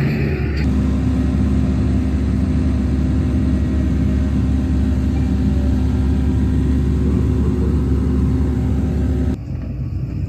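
Fire truck's diesel engine running with a loud, steady low rumble. Near the end it cuts abruptly to a quieter rumble.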